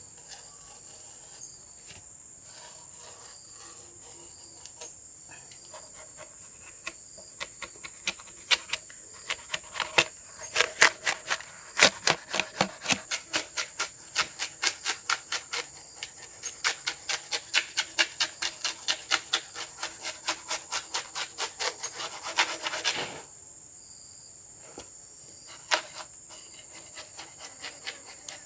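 Steady high-pitched drone of crickets. Over it, a run of quick, regular scraping strokes on wood, about three a second, starts around a quarter of the way in and stops abruptly about two-thirds through.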